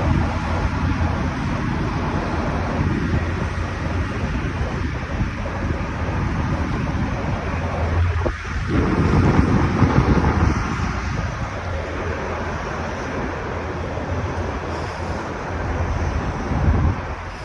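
Wind buffeting the microphone over a steady low rumble of vehicle or traffic noise, swelling louder for a couple of seconds about halfway through.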